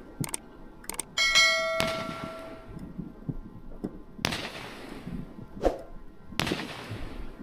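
Firework cake of mines firing shot after shot: three main bangs about two seconds apart, each with an echoing tail. A brief metallic ringing clang comes just before the first.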